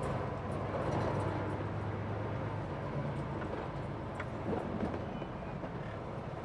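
Steady engine and road noise inside a semi truck's cab while driving: a low, even drone.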